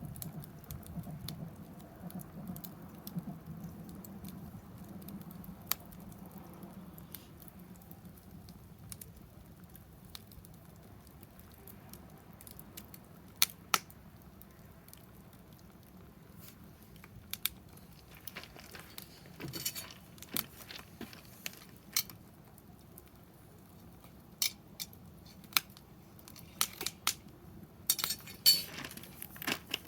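Small wood campfire in a fire pit stand crackling, with irregular sharp pops that come thicker and louder in the second half.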